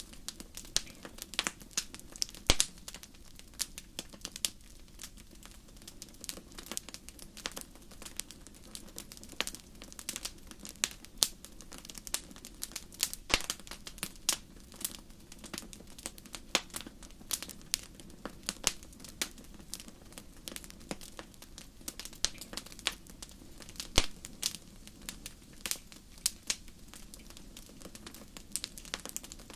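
Wood fire crackling steadily, with irregular sharp pops and snaps over a soft low rumble of the flames; a few pops stand out louder than the rest.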